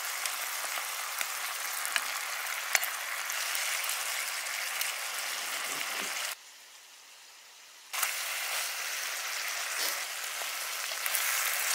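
Chili-oil sauce sizzling in a wok as chicken pieces fry in it, with a few sharp clicks about two and three seconds in. The sizzling cuts out suddenly for about a second and a half past the middle, then comes back.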